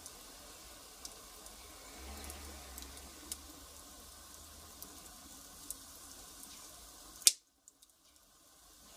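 Firewood fire crackling, with scattered sharp pops over a soft hiss. A louder pop about seven seconds in, after which the sound cuts out almost completely for a moment before the crackling returns.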